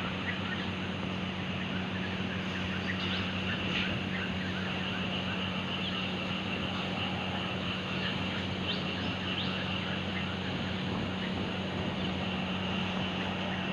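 Morning chorus of many small birds chirping and twittering continuously, over a steady low hum.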